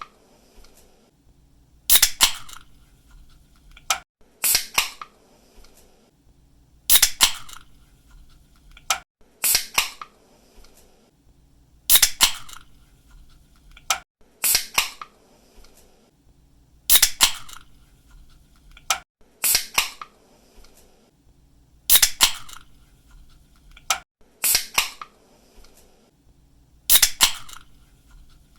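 Aluminium drink can being cracked open by its pull-tab, over and over: each opening is a sharp snap with a brief fizz, and they come about every two and a half seconds in a steady rhythm. A fainter single click falls between some of them.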